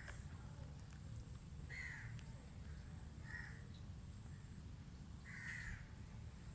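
A bird calling three times, short calls a second or two apart, over a steady low rumble.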